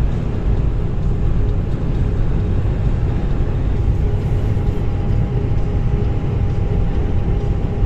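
Car driving at a steady speed, heard from inside the cabin: an even, low rumble of engine and tyres on the road, with a faint steady hum above it.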